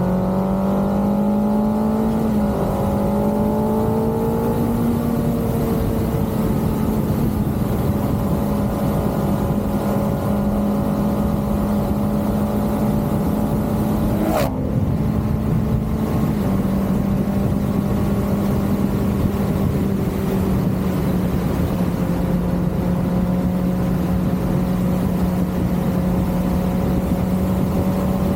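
Kawasaki ZX-6R's 636 cc inline-four engine running under way at steady mid-range revs, with wind rush beneath it. The revs climb over the first couple of seconds and then hold. There is a single sharp click about halfway through.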